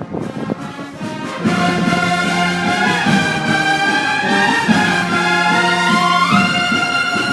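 Brass band playing a slow processional march: long held low notes under a trumpet melody. The band swells in about a second and a half in, and the melody climbs near the end.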